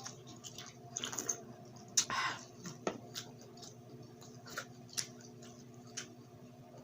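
Close-miked chewing and biting of grilled pork street food: scattered sharp, crunchy clicks, with a longer crunch about two seconds in, over a steady low hum.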